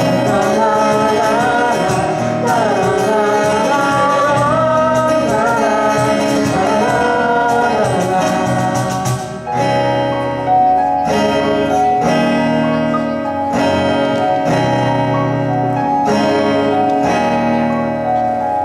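Live band with a sung vocal over guitar, keyboard and drums. About halfway through, the voice drops out and the band plays on alone with strummed chords and regular drum hits.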